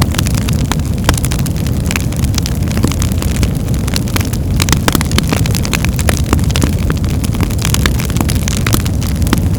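Birchwood fire burning in a fireplace: a steady low rumble of the flames with frequent sharp crackles and pops from the wood.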